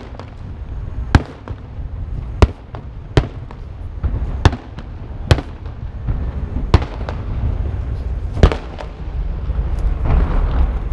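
Aerial fireworks shells bursting: about eight sharp bangs at uneven intervals, roughly a second or two apart, over a steady low rumble.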